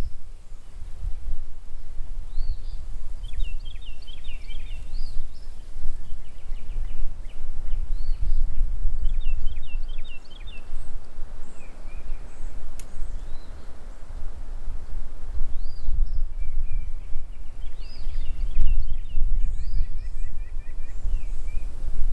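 Outdoor field ambience: wind buffeting the microphone as a loud, uneven low rumble. Over it, small birds call in several bouts of quick, high chirps and trills.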